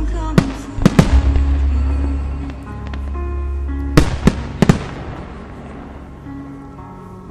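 Fireworks bursting in sharp bangs, three close together in the first second and three more about four seconds in, over music with a deep held bass.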